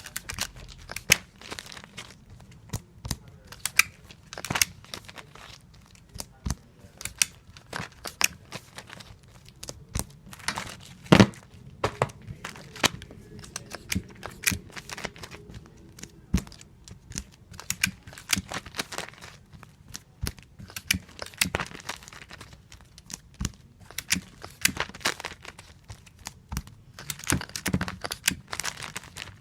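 Tape being pulled from a tape dispenser and torn off again and again while comic books are taped, giving many sharp, irregular snaps and clicks.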